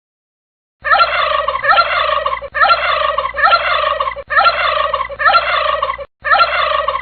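A recorded bird call played as a short loop, beginning about a second in: the same quick call phrase repeated about eight times in pairs, with abrupt cuts between the repeats.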